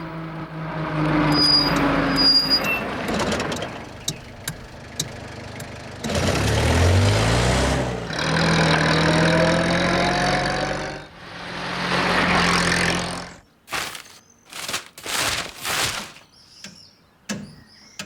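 Cartoon vehicle sound effects: an engine running and revving, with rising pitch in places. Near the end it gives way to a few short hissing bursts.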